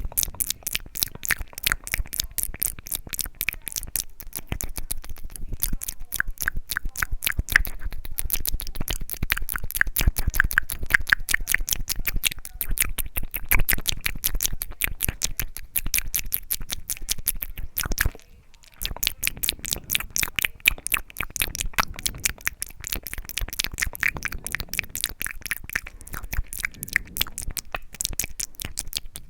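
Close-miked ASMR mouth sounds: rapid wet clicks and smacks of the lips and tongue, many a second, with a brief pause about two-thirds of the way through.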